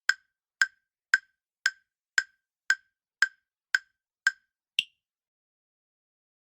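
Quiz countdown-timer sound effect: a sharp wood-block-like tick about twice a second, ten ticks in all, the last one higher in pitch, marking the end of the time given to answer.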